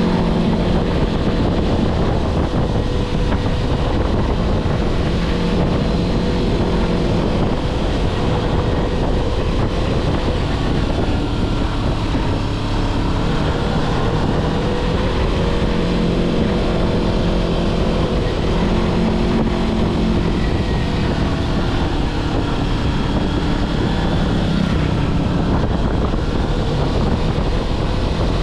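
Kawasaki Versys-X 250's parallel-twin engine running at moderate, fairly steady revs while riding, its pitch rising and falling a little with the throttle, with wind rushing over the microphone.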